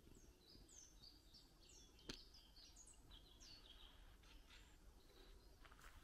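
Faint songbird singing: a quick run of high chirps and short falling notes that stops about four seconds in, with one sharp click about two seconds in.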